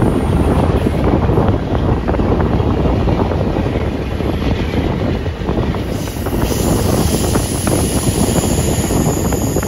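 Steady running noise of a Superliner passenger train rolling over the rails, with wind buffeting the microphone.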